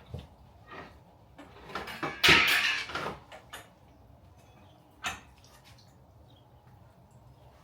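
Knocks and bumps of objects being handled and moved, with a louder scraping rattle about two seconds in and one more sharp knock about five seconds in.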